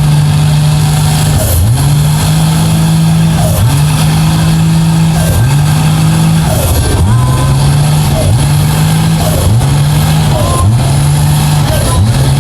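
Mega truck engine revving hard again and again, its pitch climbing and holding about every second and a half to two seconds, loud throughout.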